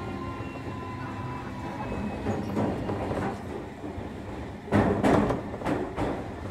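Inside a JR Kyushu 305 series electric train: a steady running rumble with a faint whine that falls slightly, then, about two-thirds of the way in, a run of loud clattering knocks from the wheels.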